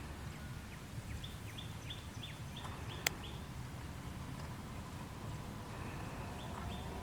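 A bird calling a quick series of about seven short, falling notes, about three a second, with a few more near the end, over a steady low outdoor rumble. A single sharp click sounds about three seconds in.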